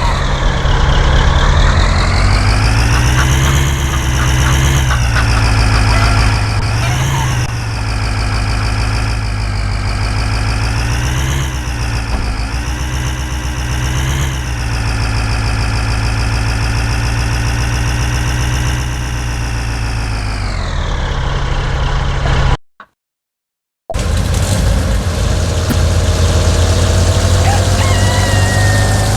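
A vehicle engine revved up and down several times, its pitch rising and falling, then dropping back. After about a second of silence it runs steadily with a slowly rising whine.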